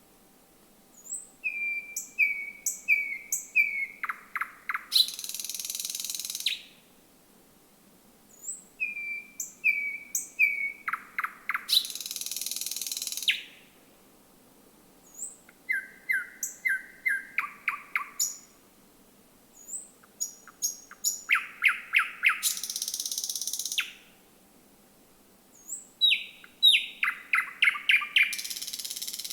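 Thrush nightingale singing: four song phrases a few seconds apart, each a few short whistled notes, then a fast run of hard clicking notes, ending in a dry buzzing rattle of about a second and a half.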